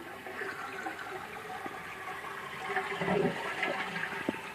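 Toilet flushing: water rushing out of the tank and down through the bowl, with a few light clicks near the end.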